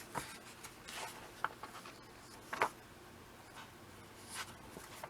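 Soft paper rustles and a few light ticks as a comic book's pages are handled and turned.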